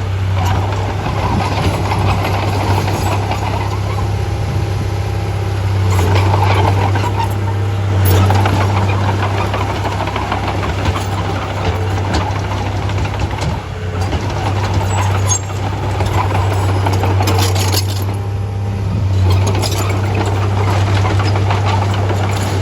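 Bulldozer's diesel engine running steadily at work, with a low hum and a few slight swells in level.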